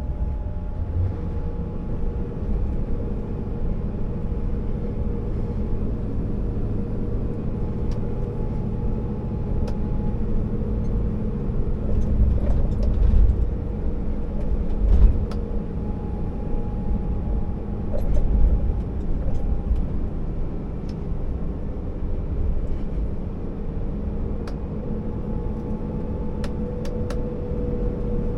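A Scania R650 timber truck driving, its V8 diesel engine and road noise making a steady rumble with a constant whine over it. There are a few louder thumps and rattles around the middle.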